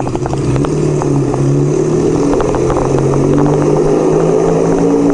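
1975 Kawasaki KZ400 parallel-twin motorcycle engine running steadily at low speed inside a parking garage, loud.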